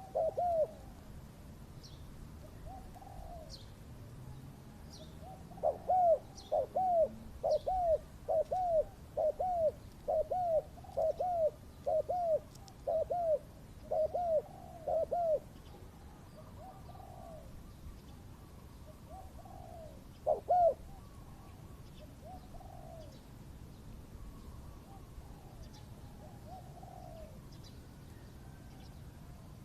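Spotted dove cooing: a fast run of about fifteen arched coos, roughly three every two seconds, stopping near the middle, with fainter answering coos from a second dove before and after. Faint high chirps of small birds sound throughout.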